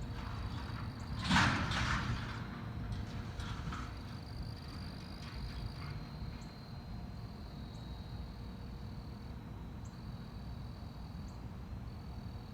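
Outdoor nature ambience: a steady high insect drone over a low background hum, with one short noisy rustle about a second and a half in.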